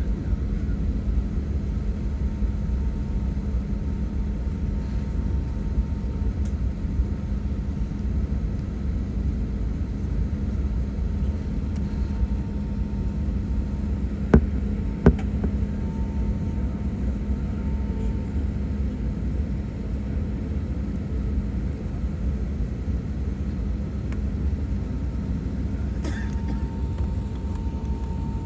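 Airliner cabin noise: a steady low rumble of engines and airflow heard from inside the passenger cabin, with two sharp clicks in quick succession about halfway through.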